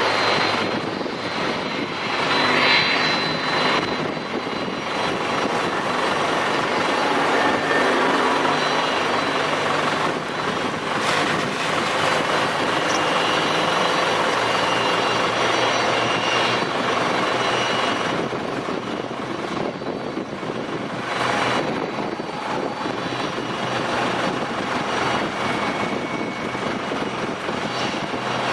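Jet engines of a Boeing 747-400 freighter running with a steady, loud rush and faint whining tones.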